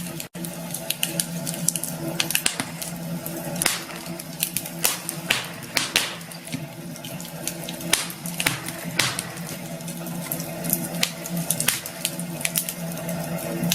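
Campfire crackling: irregular sharp pops and snaps over a steady hiss of burning wood.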